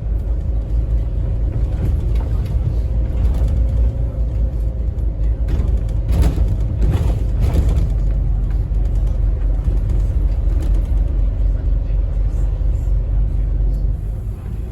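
Interior sound of a Scania N270UD OmniCity bus on the move: its nine-litre five-cylinder diesel engine and the road give a steady low rumble, with a faint steady whine. A brief run of rattles and knocks, typical of body panels and fittings over a rough patch of road, comes about six to eight seconds in.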